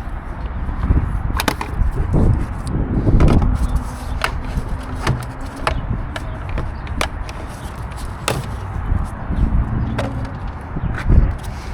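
Irregular sharp clicks and knocks, a dozen or so, from tools and parts being handled during hands-on work on a car, over a low rumbling handling noise.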